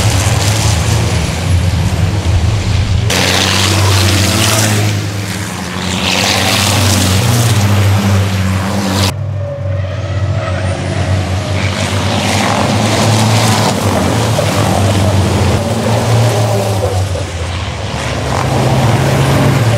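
Racing trucks' turbo-diesel engines running on track. The sound changes abruptly about three seconds in and again about nine seconds in.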